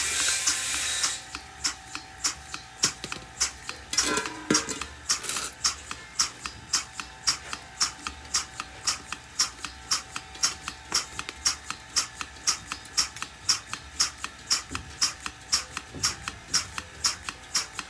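A cow being milked: short squirts of milk into a pail in a quick, even rhythm of about three a second.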